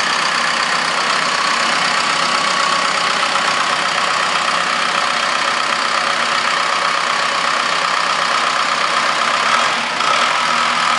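Cummins 4BT 3.9 (Case 4T-390) four-cylinder turbo diesel engine running steadily, with a slight dip in loudness near the end.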